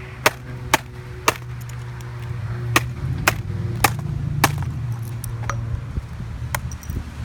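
A hammer striking a MacBook in a run of about nine sharp blows, quick at first and then more spaced out, over a steady low hum.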